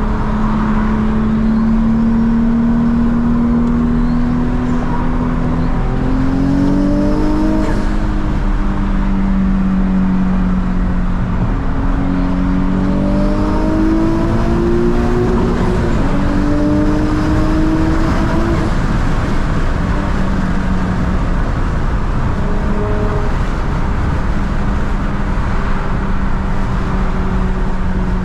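2006 Nissan 350Z's twin-turbocharged VQ35DE 3.5-litre V6 under way at light throttle, over steady road noise. The engine pitch climbs gently twice, about six and about twelve seconds in, then drops back and holds steady.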